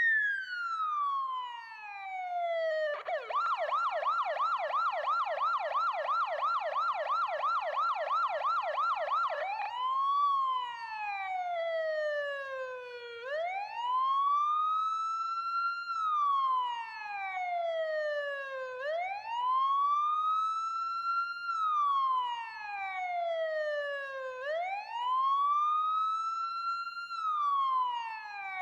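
Electronic ambulance siren. It opens on a falling wail, switches to a fast yelp of about four to five quick up-down sweeps a second, and about ten seconds in changes to a slow wail that rises and falls every five to six seconds.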